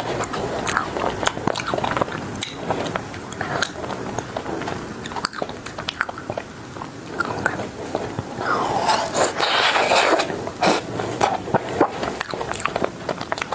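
Close-miked biting and chewing of an ice cream bar with a crisp coating: many small sharp crackles and wet mouth sounds, with a longer, louder hissing mouth sound about two-thirds of the way through.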